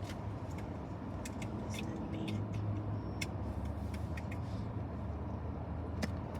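Car driving, heard from inside the cabin: a steady low road-and-engine rumble with a hum that grows stronger a couple of seconds in, and a few light clicks.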